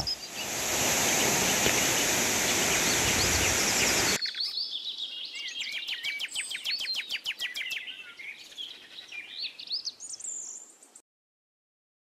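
A steady rushing noise for the first four seconds, then birds chirping with many quick, sweeping notes that stop abruptly about a second before the end.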